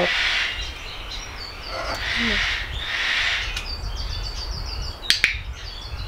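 Birds calling in the background: a rapid, high chattering trill that comes and goes, and three short, harsh, hissy calls. A couple of sharp clicks about five seconds in.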